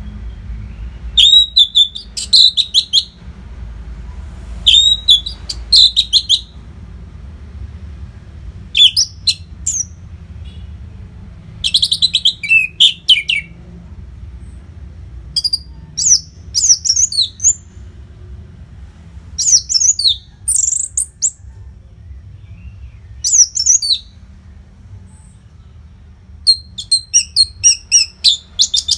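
Orange-headed thrush (anis merah) singing in loud, varied phrases of quick whistled notes, a new phrase every two to four seconds, ending in a run of rapid notes.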